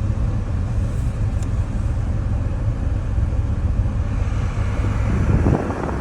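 Steady low rumble inside an SUV's cabin, with the engine and the climate-control blower running while the blend door actuators recalibrate. About five seconds in, the low rumble drops and a rougher rushing-air noise takes over.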